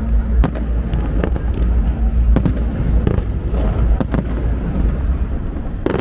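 Fireworks display going off: a string of sharp bangs and crackles, roughly one to two a second, over a continuous low rumble.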